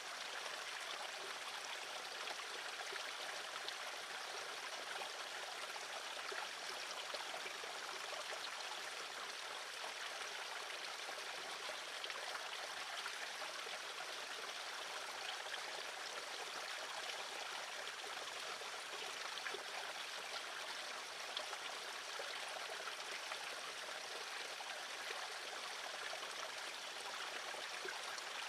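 Steady rushing of running water, even and unbroken throughout, with no bird calls.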